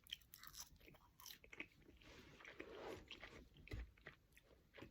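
Faint close-up chewing of a cheeseburger: soft irregular wet clicks and crunches.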